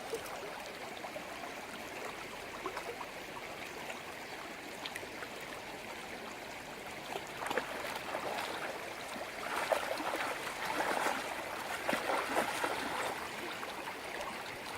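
Shallow arroyo stream running and trickling over its bed, with louder, choppier gurgling in the second half.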